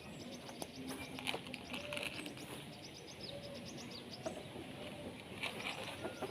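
Birds chirping in quick runs of high notes, with lower short calls and a few sharp clicks, as they are fed and are really hungry.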